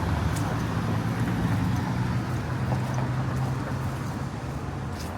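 Street traffic, with a motor vehicle's engine running close by as a steady low hum that fades a little toward the end.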